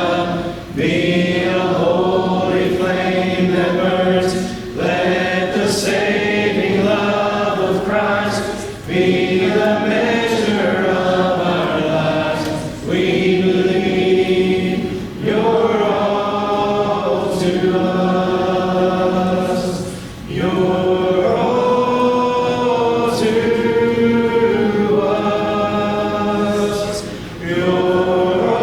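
Congregation singing a hymn a cappella in several voice parts, no instruments, in long held phrases with short breaths between them every few seconds.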